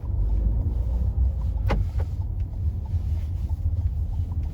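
Steady low rumble of road and engine noise inside the cabin of a 2019 Renault Mégane 4 with a 1.5 dCi diesel while driving, with one sharp click a little under two seconds in.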